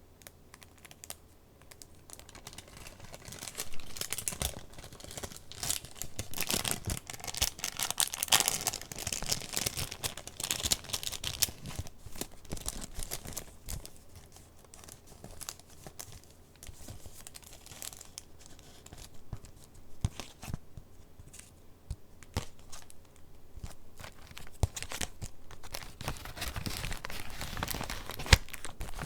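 Paper of a handmade junk journal rustling and crinkling as its pages are handled and turned, in louder stretches with a few sharp taps, the loudest near the end.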